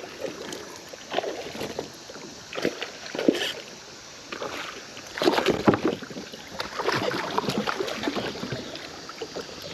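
Water splashing and sloshing in irregular bursts, as a hooked fish is fought and brought in.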